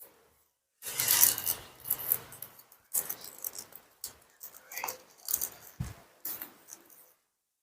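Origami paper rustling and crinkling in irregular bursts as it is folded and creased by hand.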